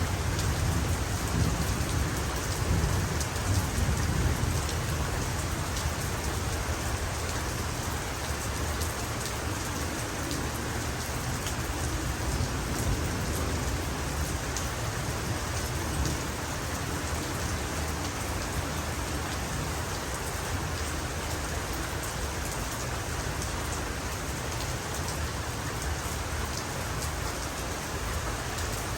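Heavy rain falling steadily, a dense even hiss of drops. A low rumble of thunder in the first few seconds fades away.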